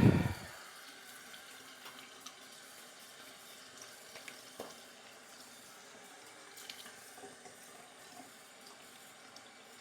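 Tap water running steadily into a sink, with a few small splashes and clicks.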